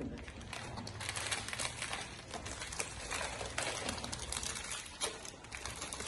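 Crinkling and rustling of plastic snack packaging being handled, a dense run of small crackles and clicks.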